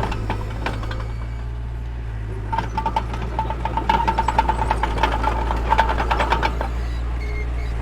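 Mini bulldozer's diesel engine running with a steady low drone, joined for a few seconds in the middle by rapid metallic clattering and a squeal as the steel tracks move.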